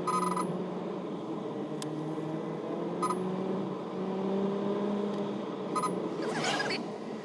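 A motor vehicle engine running steadily, its pitch slowly drifting up and down, with three short high beeps.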